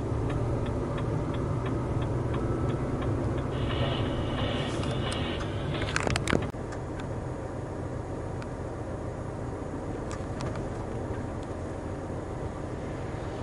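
Vehicle engine running with a rapid, even ticking of about three ticks a second. About six seconds in comes a short cluster of sharp loud clicks, and the sound is lower after it.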